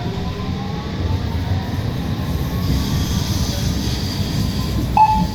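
Alstom Citadis Spirit light-rail train pulling away under power: a low rumble of wheels on rail, with the traction motors' whine rising slowly in pitch as it gathers speed. A faint high squeal from the wheels sets in about halfway, and a short, sharp tone sounds once near the end.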